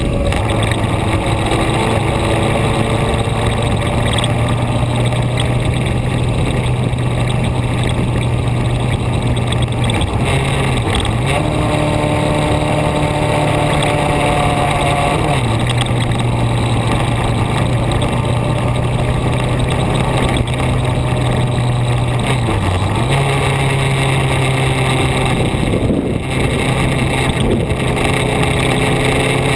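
A vehicle's engine running at steady revs while driving, over a steady rushing noise. A few times the engine pitch drops briefly and climbs back, as in a gear change or easing off the throttle.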